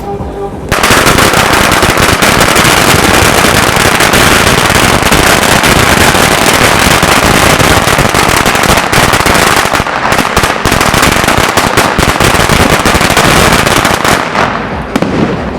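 A firecracker string going off in one long, rapid, continuous crackle. It starts under a second in, runs for about thirteen seconds, grows patchier toward the end and stops shortly before the end.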